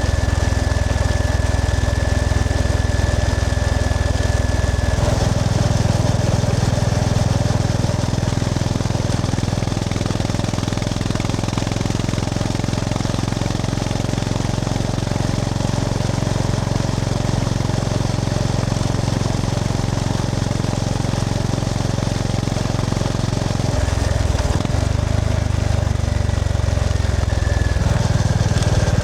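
Honda GB350S's air-cooled single-cylinder engine running steadily while riding. The engine note changes about five seconds in and again twice near the end.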